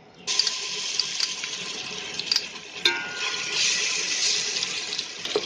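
Ginger-garlic paste hitting hot oil in a stainless steel pot and sizzling, starting suddenly about a quarter of a second in and hissing steadily, with a few sharp clicks as it is stirred.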